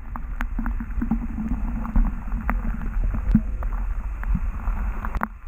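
Water sloshing against a Lifetime Daylite kayak's hull, with scattered small knocks on the boat and wind rumbling on the microphone.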